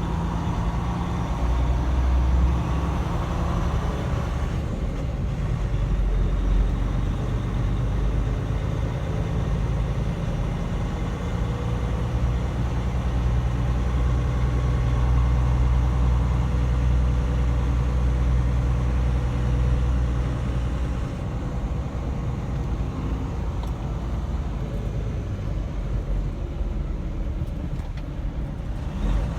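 Semi truck's diesel engine running as the truck drives, a steady low drone that eases off about three quarters of the way through.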